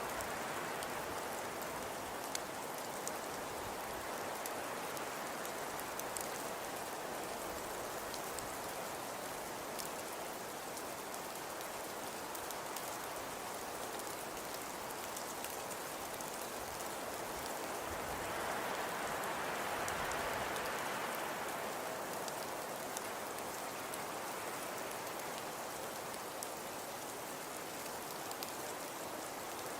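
Fireplace fire crackling: a steady soft hiss sprinkled with many small sharp pops and snaps, swelling a little about two-thirds of the way through.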